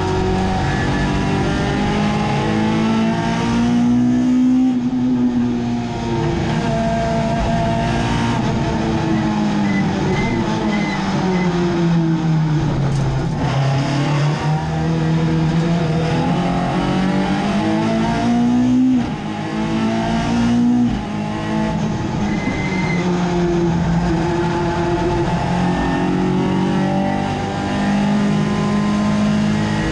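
Race-prepared car's engine heard from inside the cabin, its pitch rising under acceleration and then falling slowly under braking into a slow corner about halfway through. It then climbs again with two sharp drops around twenty seconds in as the driver shifts up, and runs high and steady near the end.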